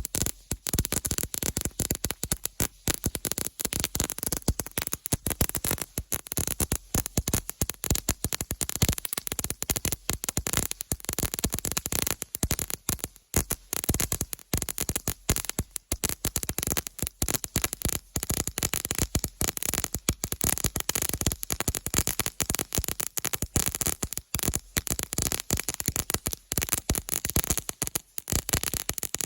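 Small ground fountain firework burning, giving off a dense, continuous crackle of rapid, irregular sharp pops.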